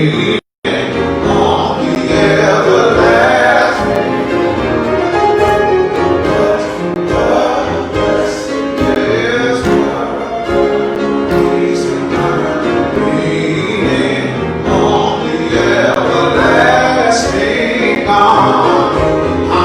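Gospel singing by voices in a church service, with instrumental accompaniment, running without a break apart from a very brief audio dropout about half a second in.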